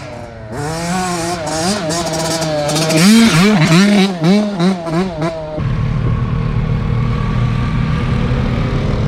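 A dirt bike engine revved over and over, its pitch swinging up and down with each blip of the throttle. After about five and a half seconds it settles into a steadier, lower running sound.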